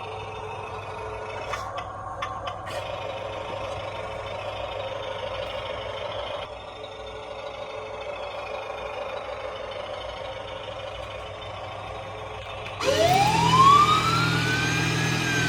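Small electric motor whirring steadily in a toy remote-control fire truck, with a few clicks about two seconds in. Near the end its electronic siren switches on loudly, its pitch sweeping up and then falling.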